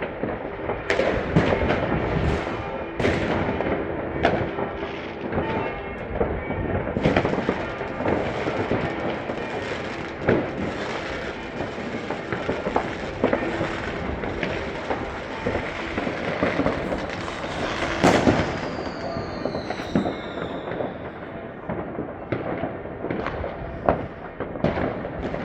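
Many fireworks and firecrackers going off at once: continuous crackling with frequent sharp bangs. About three quarters of the way through, a whistling firework falls in pitch.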